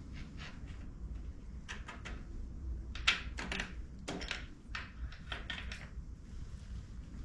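Hand tools and metal parts being handled during motorcycle rear suspension work: a string of irregular small clicks and knocks, the loudest about three seconds in, over a low steady hum.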